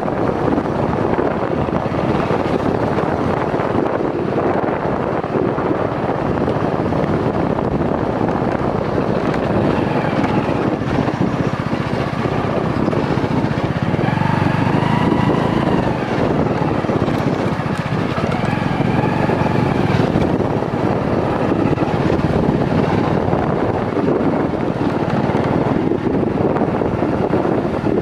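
A vehicle running on a ride over rough ground, its engine nearly buried in steady wind noise on the microphone.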